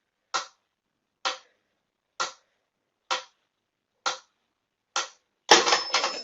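A sharp tick or tap repeating evenly, a little faster than once a second, then a short stretch of busier, noisier clattering near the end.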